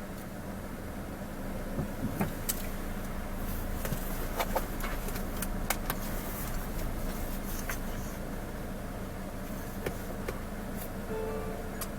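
A steady low engine hum with scattered sharp clicks and knocks.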